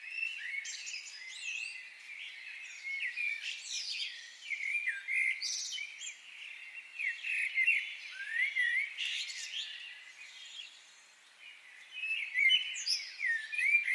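Several wild birds singing and calling at once, a dense mix of overlapping high chirps and gliding whistles, easing into a brief lull about three-quarters of the way through before picking up again.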